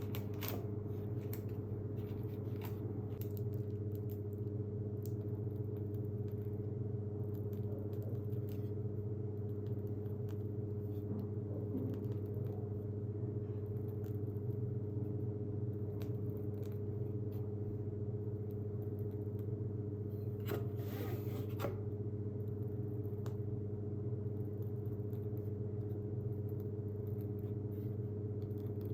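Steady low electrical hum, with scattered light taps and scrapes of cake-decorating tools and one short scraping sound a little after twenty seconds in.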